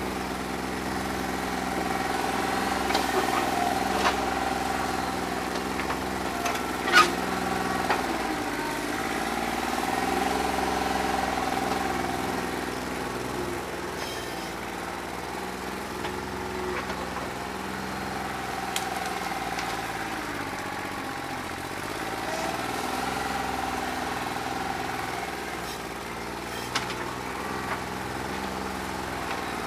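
New Holland 1320 compact tractor's diesel engine running with a faulty injector, its speed rising and falling slightly under changing load. A few sharp knocks are heard, the loudest about seven seconds in.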